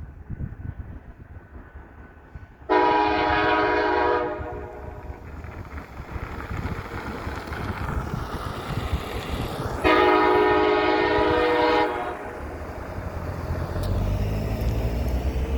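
Diesel locomotive air horn sounding two long blasts a few seconds apart, the signal to proceed as the train departs. Under the blasts is a low engine rumble, which grows louder near the end.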